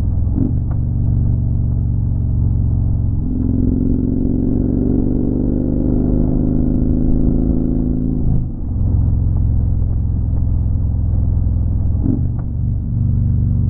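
Motorcycle engine under way, pulling steadily with its pitch rising over several seconds, then dropping sharply at a gear change; another brief dip comes near the end.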